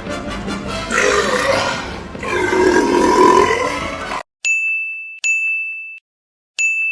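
A loud, noisy mix with voice-like sounds, then three electronic beeps about four seconds in, each a steady high tone lasting under a second, with dead silence between them.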